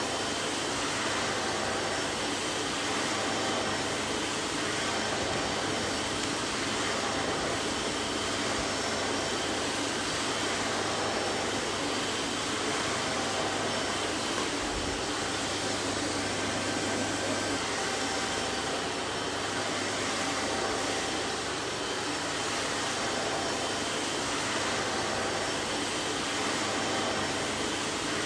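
Vacuum cleaner running steadily: an even rushing hiss of air and motor with faint steady whine tones, no change in speed.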